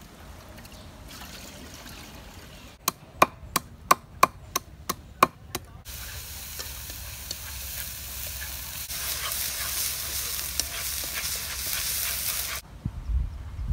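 Food sizzling in a wok as it is stir-fried with wooden chopsticks: a steady frying hiss that cuts off suddenly near the end. Before it, a quick run of about nine sharp knocks, roughly three a second.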